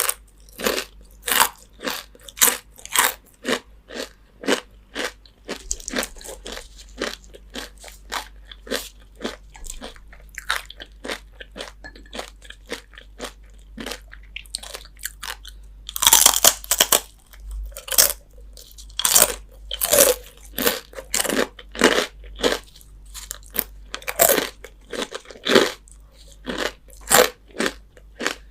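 Crispy fried chicken skin being bitten and chewed: a steady run of crisp crunches, about one to two a second, with a louder, denser burst of crunching about halfway through.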